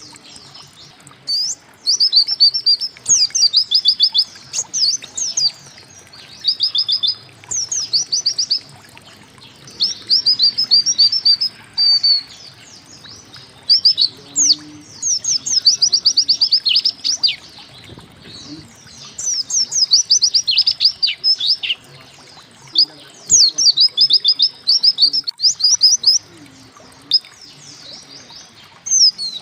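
A white-eye (pleci) singing: high, fast trilled phrases of quick down-slurred notes, each about a second long, repeated every second or two with short pauses between.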